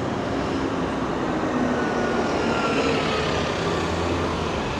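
Airliner flying overhead: a steady rumble with a faint whine slowly falling in pitch through the middle.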